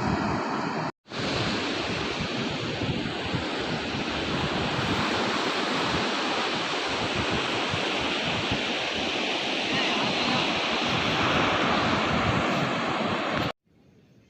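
Heavy rain pouring down, a steady loud hiss. It drops out for a moment about a second in and stops abruptly near the end.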